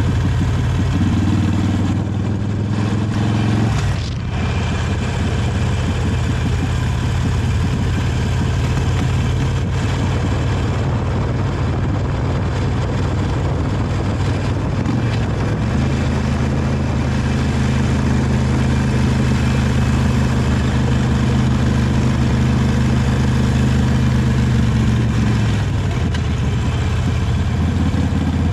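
Harley-Davidson Sportster 883 Iron's air-cooled V-twin through its stock exhaust, running on the road. The note changes briefly about four seconds in, holds steady through a long stretch, then drops near the end.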